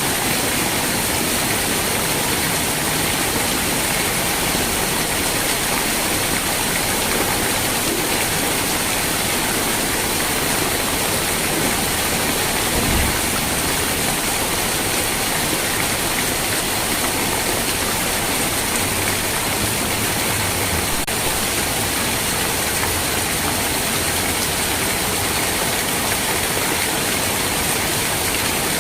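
Steady heavy rain, an even hiss with no let-up, and a brief low thump about halfway through.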